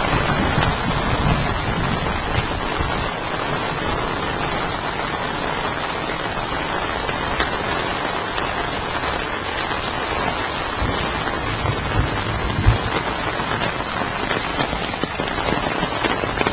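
Heavy rain falling steadily, a dense even hiss of drops on the ground. There is an occasional low thump, the loudest about twelve seconds in.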